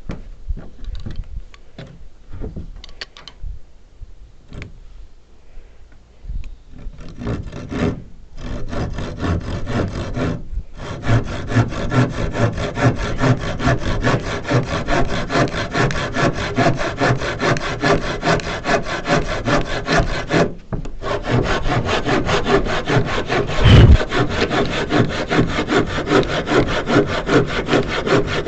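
Hand panel saw cutting wood in steady back-and-forth strokes, after several seconds of scattered light knocks. The sawing stops briefly twice, and there is one sharp thump about two thirds of the way through.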